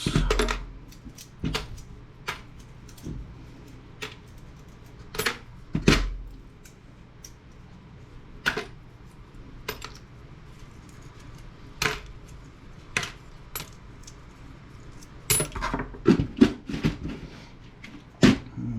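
Small metal scrap parts and hand tools clinking and knocking at irregular intervals, with a few heavier thuds, as a CRT monitor's parts are taken apart and sorted.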